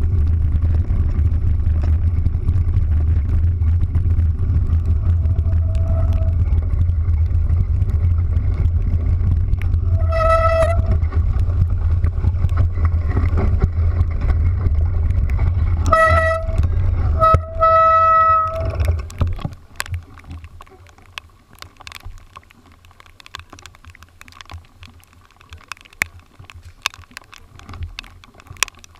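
Vehicle running with a heavy low rumble while a horn honks: a short blast, another short one, then a longer one. About two-thirds of the way through, the rumble dies away, leaving a quieter background with scattered light ticks.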